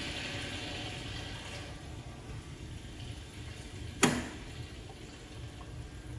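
Water running through the jewelry laser welder's cooling system, a flowing, filling sound that fades after about two seconds over a steady low hum. One sharp click about four seconds in.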